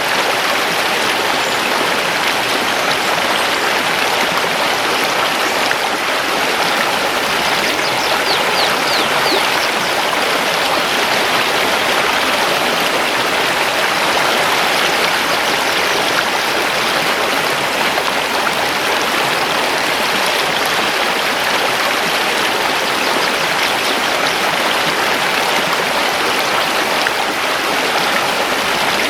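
Mountain river rushing over stones: a steady, even flow of water. About eight seconds in, a few faint high bird chirps sound over the water.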